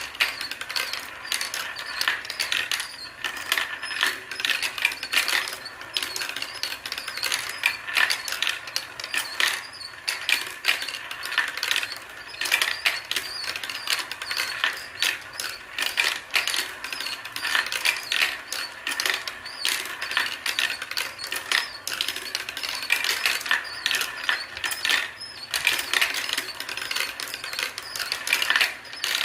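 Marbles rolling and clacking down a toy marble run while its automatic ladder lift clicks them back up to the top: a continuous, uneven stream of small clicks and clatters.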